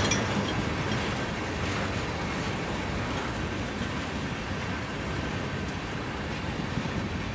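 Train rolling past on the rails: a steady rumble and rattle of wheels on track.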